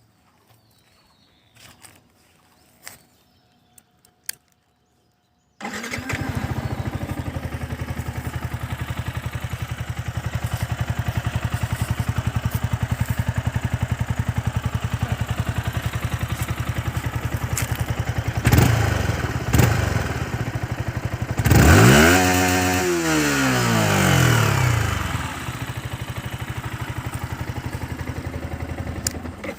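Yamaha MT-15's 155 cc single-cylinder engine starting abruptly about five seconds in, after a few light clicks, then idling steadily. Near the middle it is blipped twice, then revved once high, and the pitch falls back to idle.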